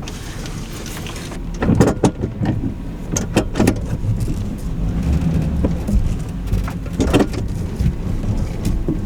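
Camper van engine running at low speed while the van is manoeuvred back and forth to turn around, with rain falling and a few sharp knocks scattered through.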